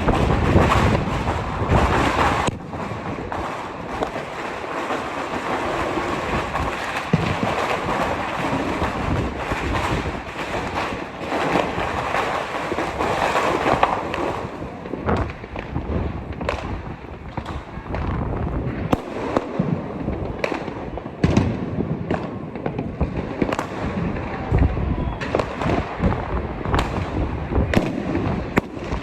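Fireworks and firecrackers going off: a dense, continuous crackle for about the first half, then many separate sharp bangs, some close together, for the rest.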